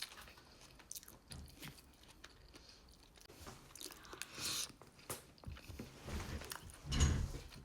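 A person chewing a mouthful of takeout Chinese food close to the microphone: scattered small clicks, with louder chewing bursts about four and a half and seven seconds in.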